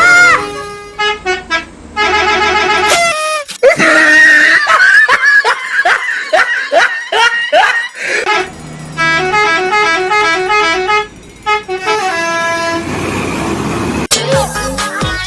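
Multi-tone telolet bus horn playing quick tooting note patterns, with a run of swooping rising and falling tones in the middle.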